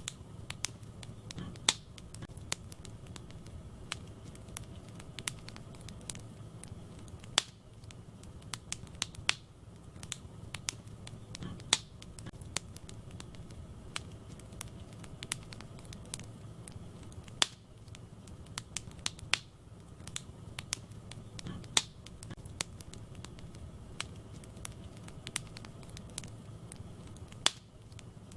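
Wood fire burning in a fireplace, crackling with frequent sharp pops at irregular intervals over a soft low rumble of the flames.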